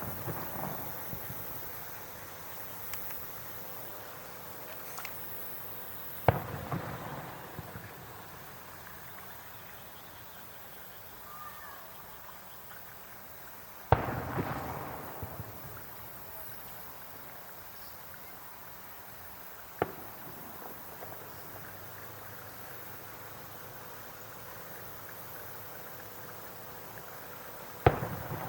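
Aerial fireworks shells bursting: four loud bangs spaced several seconds apart, the stronger ones trailing off for a second or two after the bang.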